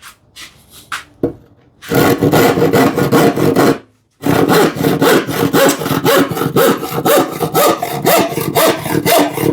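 A new western hand saw, filed for crosscut or hybrid cutting, sawing wood in quick, even strokes. It starts about two seconds in, stops briefly around four seconds, then carries on steadily. The blade still has its factory anti-rust coating, which the woodworker says causes some binding.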